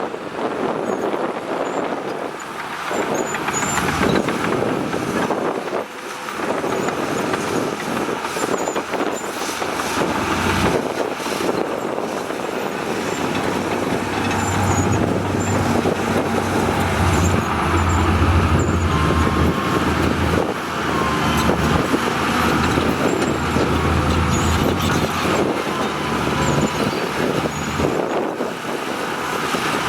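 Heavy diesel construction machinery running and working continuously, with a deeper engine drone that grows stronger from about halfway through.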